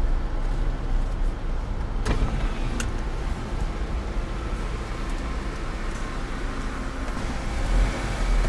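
Car's engine and drivetrain rumbling low and steady, heard from inside the cabin as the car rolls slowly, with two short clicks about two and three seconds in.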